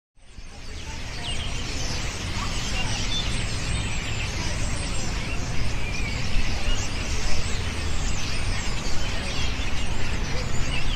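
A large flock of European starlings calling together, a dense, unbroken mass of overlapping chirps and whistles, over a steady low rumble.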